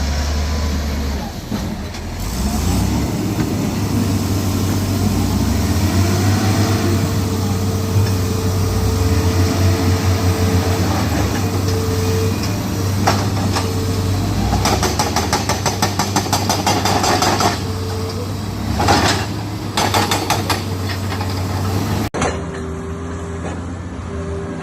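Heavy diesel engines of trucks and road-clearing machinery running steadily at a low hum, with runs of rapid rattling knocks in the second half. The sound changes abruptly near the end.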